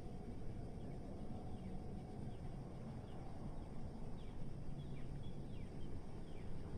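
Steady low city traffic rumble, with faint short high chirps of small birds repeating through the second half.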